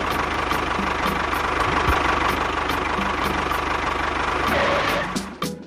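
Small engine running steadily, then dying away about five seconds in.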